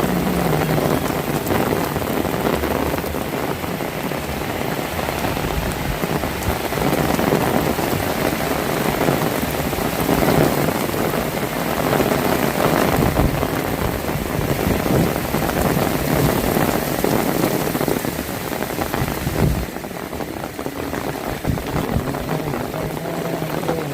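Heavy rain falling steadily: a dense, even hiss of raindrops hitting surfaces. It eases slightly about twenty seconds in.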